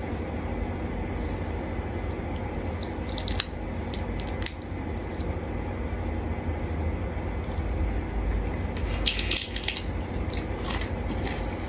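Cutlery and dishes clicking lightly now and then over a steady low hum, with a quick run of clicks about nine seconds in.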